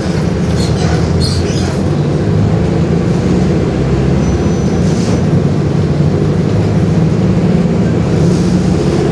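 Mercedes-Benz OF-1721 BlueTec 5 bus diesel engine running steadily. Short high squeaks and rattles come through in the first two seconds and again around five seconds in.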